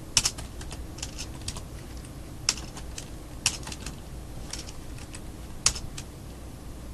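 Keystrokes on a computer keyboard, typed in short irregular runs with pauses between them.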